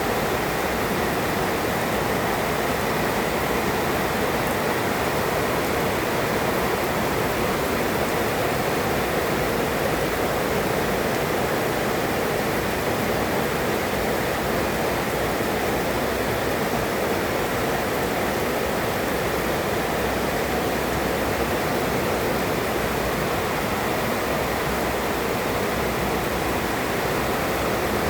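Heavy rain pouring steadily, an even, unbroken hiss with no thunder claps.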